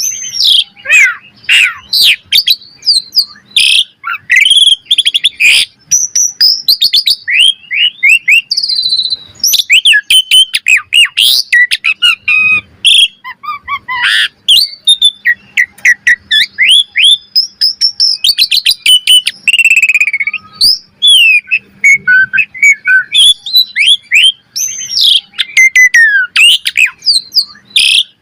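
Asian pied starling (jalak suren) singing a long, varied song without pause: rising and falling whistled phrases mixed with rapid clicking chatter.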